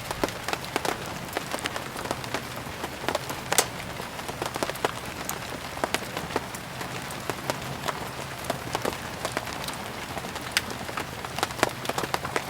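Steady rain falling, with irregular sharp pops and crackles from burning firewood scattered through it, one louder pop about three and a half seconds in.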